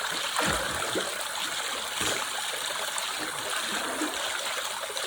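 River water rushing steadily, with a couple of soft low thuds about half a second and two seconds in.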